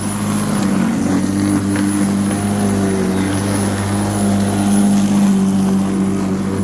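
Black & Decker 1800 W electric rotary lawnmower running steadily while cutting wet grass: a constant motor hum with a thin high whine above it.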